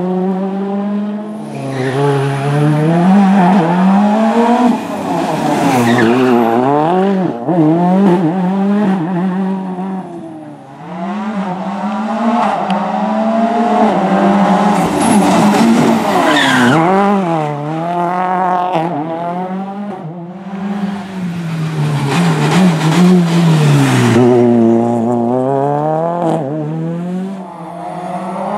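Ford Fiesta RS WRC rally car's 1.6-litre turbocharged four-cylinder engine revving hard up and down through the gears. The revs repeatedly climb, then drop at shifts and braking, with occasional sharp cracks.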